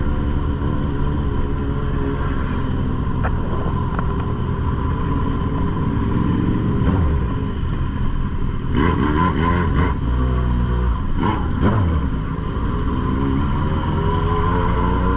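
Suzuki GSX-S1000's inline-four engine running under way on the road. About halfway through, the revs rise and fall through gear changes.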